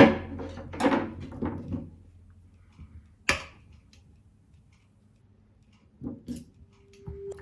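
Kitchen cookware and utensils clinking and knocking: a cluster of clatter at the start, a single sharp knock about three seconds in, and a few more knocks near the end.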